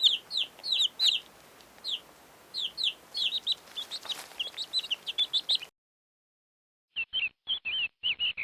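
Chicks peeping: a quick run of high, falling peeps, then after a break of about a second a shorter, choppier run of peeps.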